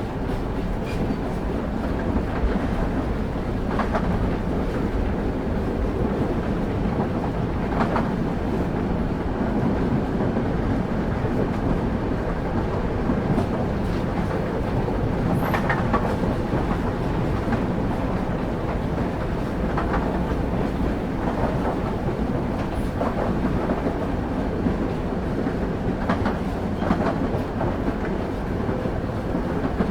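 Passenger train's wheels running along the rails, heard from on board: a steady low rumble with occasional clacks as the wheels cross rail joints.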